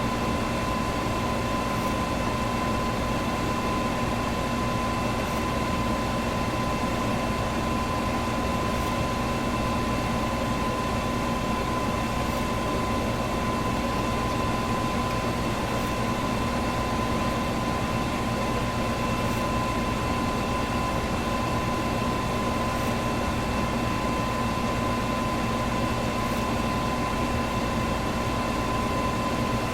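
Electric fan running steadily: an even rush of moving air with a constant hum and a clear high whine, unchanging throughout. A faint tick recurs about every three and a half seconds.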